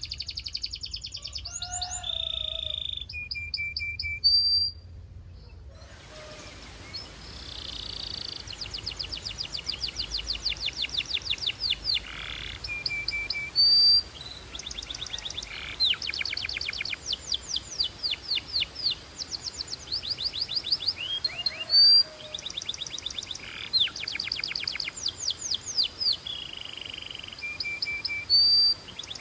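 Belgian canary singing: fast trills of rapidly repeated sweeping notes, broken now and then by short, loud steady whistled notes, with a brief pause about five seconds in.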